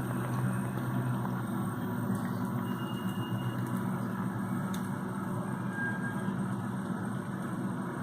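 A train running by with a steady, even rumble and low hum.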